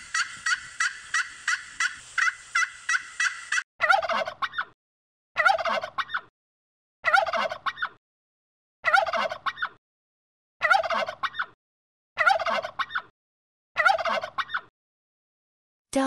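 Turkey calling: a rapid run of high, evenly spaced notes, about three a second, for the first few seconds, then seven separate gobbles, each under a second long, repeated about every second and a half.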